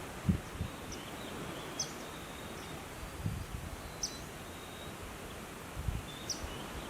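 Outdoor nature ambience: a steady hiss of background noise with a bird's short high chirp repeating every two seconds or so. A few low thumps stand out as the loudest moments.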